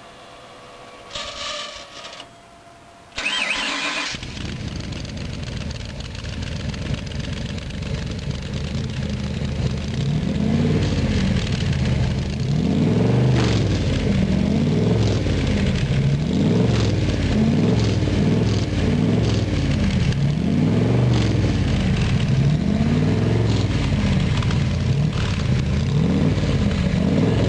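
The electric fuel pump of a fuel-injected 427 Windsor Ford V8 hums briefly. Then the engine cranks and fires about three seconds in and settles into a fast idle. From about ten seconds on the idle rises and falls in a steady rhythm, about once a second.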